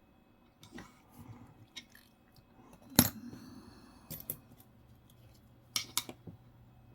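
Coins clicking and clinking as they are handled and set down. There are a few light clicks, then a sharp metallic click with a short ring about three seconds in, and more pairs of ringing clicks around four and six seconds.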